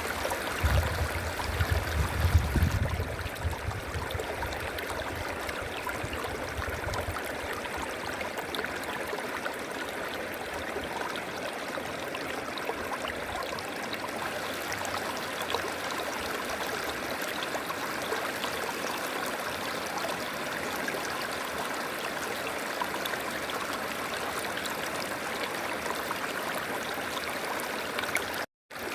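River water flowing steadily, a continuous rushing, with a low rumble in the first three seconds. The sound cuts out for a moment just before the end.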